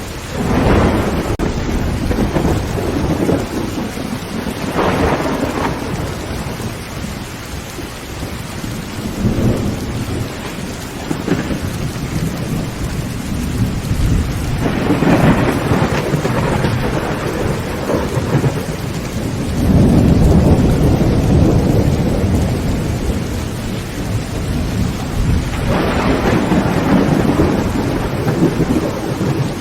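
Heavy rain drumming on a tin roof, with rolls of thunder rumbling in and dying away every few seconds.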